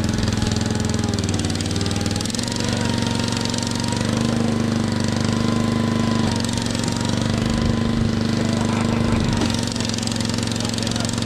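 Gilson garden tractor's small engine running steadily under load while pulling a car, its pitch sagging and picking back up a few times.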